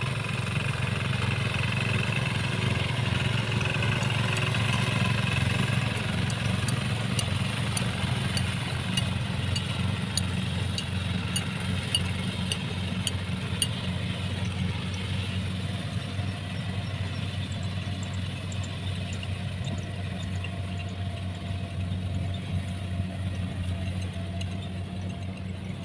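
Rice combine harvester running with a steady low engine hum, with faint rapid ticking for a few seconds in the middle.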